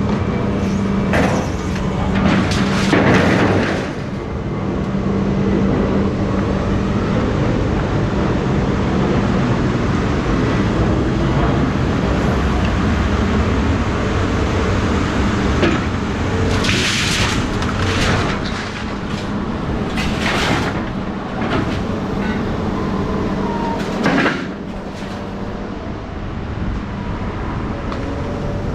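A motor running steadily with a constant low hum, broken by several short, sharp knocks and scraping bursts.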